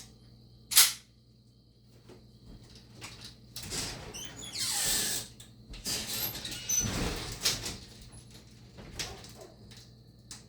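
A sharp click, then several seconds of loud scraping and rasping noises of unknown origin, one sweeping downward, over crickets chirping steadily.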